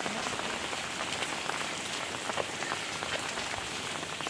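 Heavy rain falling steadily, with many close drops pattering on surfaces.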